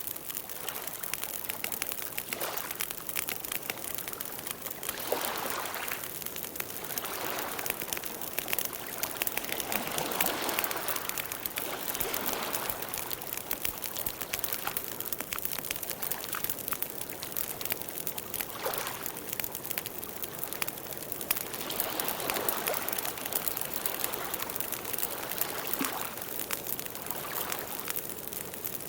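Campfire burning: wood crackling with frequent small pops over a steady hiss, which swells softly every few seconds.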